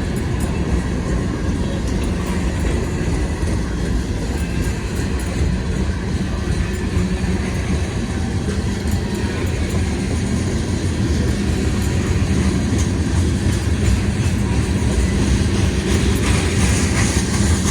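CSX manifest freight train rolling past: a steady rumble and clatter of steel wheels on the rails, with scattered clicks, growing a little louder near the end.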